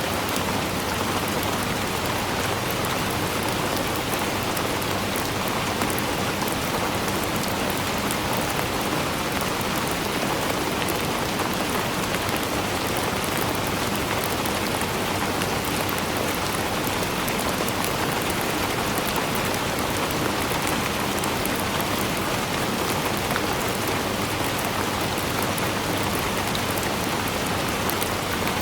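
Steady rainfall, a dense even hiss of rain on a surface with fine drop ticks, with no let-up.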